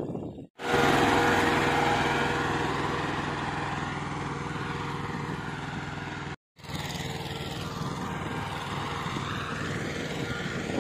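Tractor engine running steadily, cut off briefly twice by edits: about half a second in and again about six and a half seconds in.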